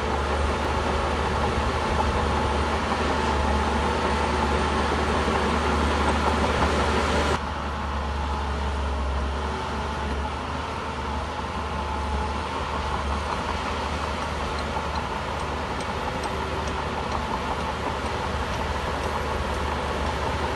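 Shantui bulldozer's diesel engine running steadily under work, with a deep steady hum. About seven seconds in the sound drops abruptly and becomes duller, then carries on steadily.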